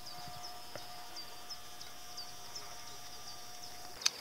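A bird singing on and on: a high continuous song with a short chirp about three times a second, over a faint steady hum. A sharp click sounds near the end.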